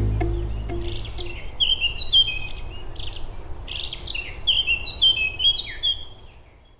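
Birds chirping: many short, high, falling chirps in quick runs, fading out near the end. The last notes of music die away in the first second.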